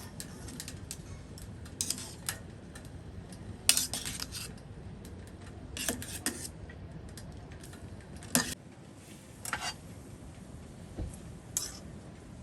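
Metal utensils clinking and scraping against camp cookware or dishes in about seven short clatters, the loudest about four seconds in.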